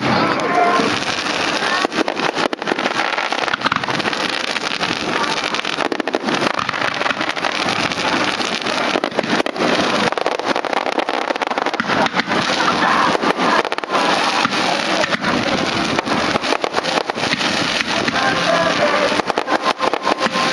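Fireworks going off in quick succession: a dense, continuous crackle with many sharp pops.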